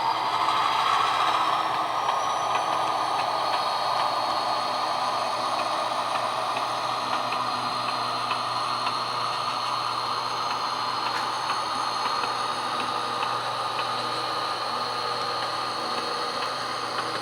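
HO scale model GP38 diesel locomotive's engine sound running steadily during switching moves, with a light, regular ticking.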